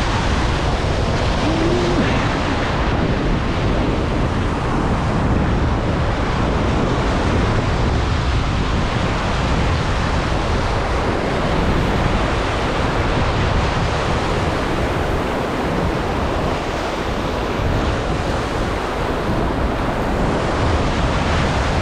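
Steady rush of wind on the microphone mixed with waves washing, even throughout with no distinct events.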